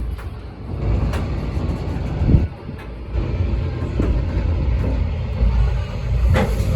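Low rumble of a slow-moving, steam-hauled passenger coach heard from inside, broken by a few sharp knocks from the running gear or couplings.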